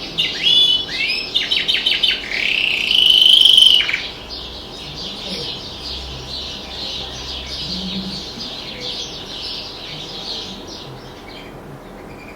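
Domestic canary singing: a few loud repeated notes, then one long held note for about a second and a half, followed by quieter rapid twittering that fades near the end.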